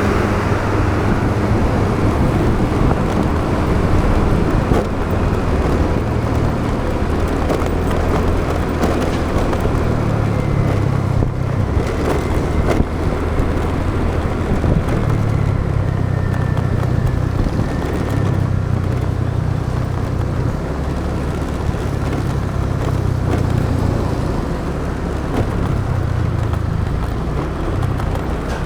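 Motorbike engine running while riding, its low hum shifting up and down in pitch several times with throttle and speed, under steady wind and road noise.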